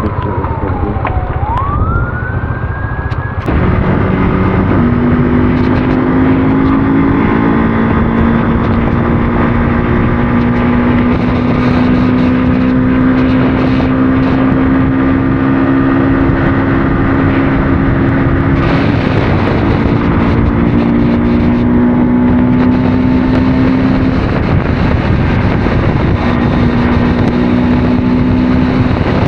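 Motorcycle engine running under way. Its pitch falls and rises in the first few seconds, then about three and a half seconds in it gets louder and holds fairly steady revs with small changes.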